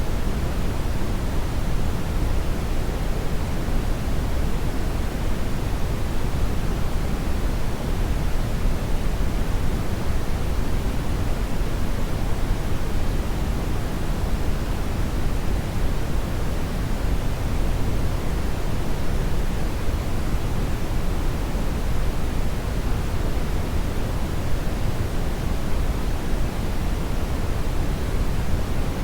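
Hair dryer running continuously, a steady airy rush weighted toward the low end, with no change in speed or pitch.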